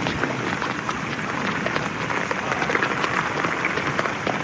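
Heavy rain pouring down steadily, with a dense crackle of drops striking hard surfaces.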